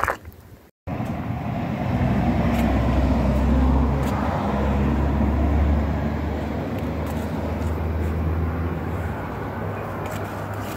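Car engine idling steadily, a low even hum that starts about a second in.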